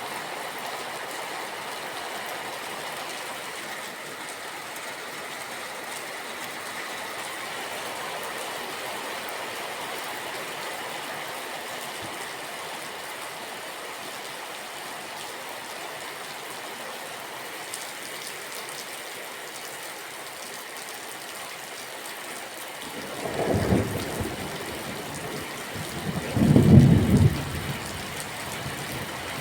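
Steady rain falling. In the last several seconds, thunder rumbles in low swells, the loudest a few seconds before the end.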